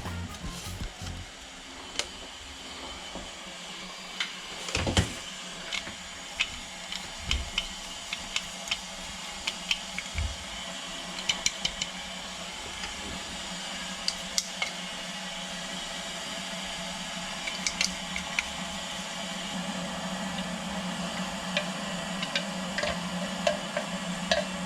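Water heating in a kettle, a steady hiss that slowly swells as it nears the boil, with scattered light clicks and knocks. It cuts off abruptly at the end.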